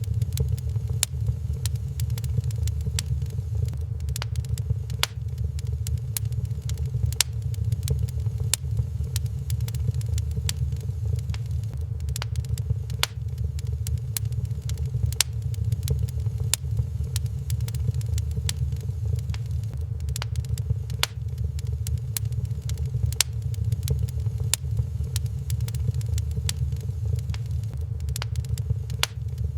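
Wood fire crackling in a fireplace, with frequent sharp irregular pops and snaps over a steady low rumble.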